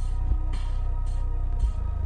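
Bass-heavy electronic music playing through a Pioneer TS-D10D4 10-inch car subwoofer: deep, sustained bass notes under a rhythm of short, high percussion hits.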